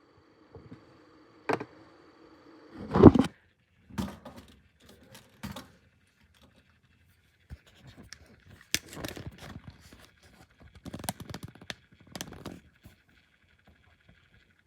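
Irregular handling noise: a loud knock about three seconds in, then scattered clicks, scrapes and clatters of objects being moved and set down.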